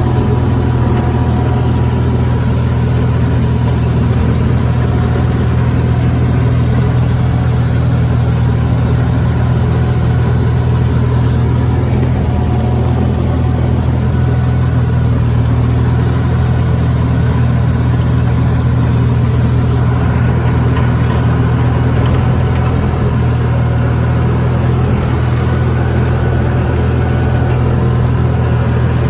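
Sears Suburban garden tractor's engine running steadily at an even speed, driving its snowblower attachment.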